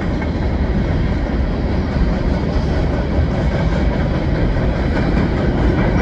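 Freight cars of a CN freight train rolling past below, with steady, loud wheel-on-rail noise.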